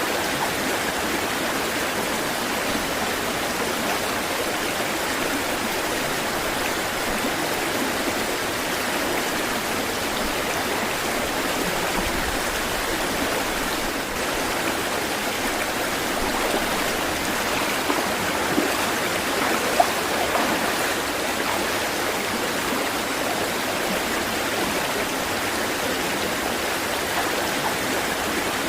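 Flowing water rushing steadily with no rise and fall, with a few brief, slightly louder splashes about two-thirds of the way through.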